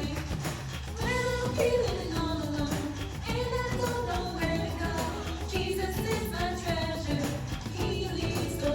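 Upbeat pop-style song with sung vocals over a band backing and a steady beat.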